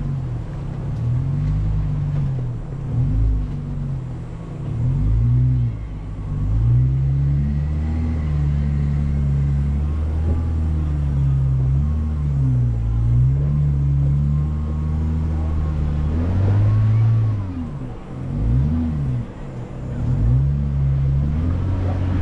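Jeep Wrangler's engine, heard close up from the hood, running under load as it crawls an off-road trail, its pitch rising and falling again and again with the throttle.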